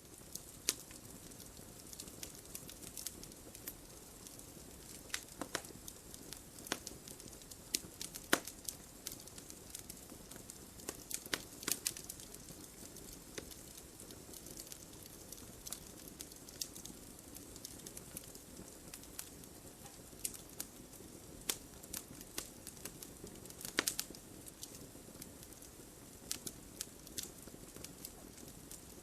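Wood fire burning in a fireplace: a steady low rush of flames with irregular sharp crackles and pops throughout, the loudest snaps about 8, 12 and 24 seconds in.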